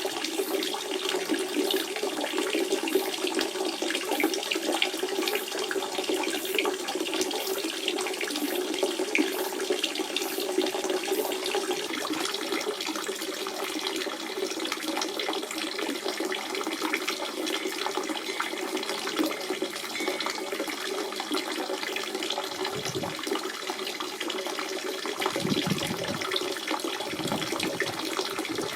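Natural spring water running and splashing steadily over stones, a continuous trickling and bubbling flow.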